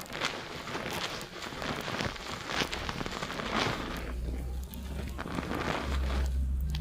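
Fingers scrubbing a shampoo-lathered scalp in quick strokes, the foam crackling and squishing close to a binaural microphone.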